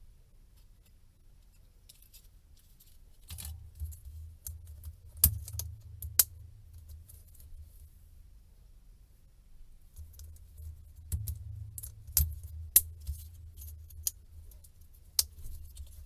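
Small tools and parts being handled on a workbench: scattered sharp clicks and taps of metal and plastic, with a low rumble of handling under two stretches of it.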